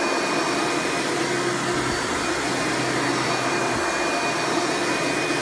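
1995 Hoover Preferred (Elite) U5095-930 upright vacuum running smoothly and steadily: its 7.2-amp direct-air motor makes an even, noisy rush of air with a constant whine, with no change in speed.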